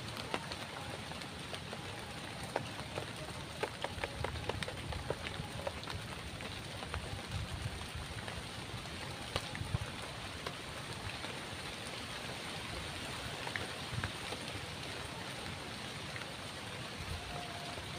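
Rain pattering steadily, with many scattered individual drops ticking over an even hiss.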